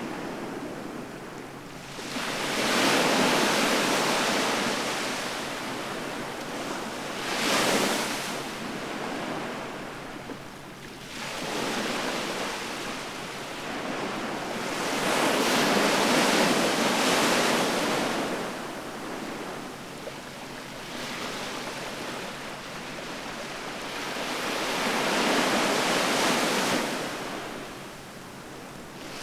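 Sea waves breaking and washing onto the shore, about six surges that each swell and fade over a few seconds, some short and some long.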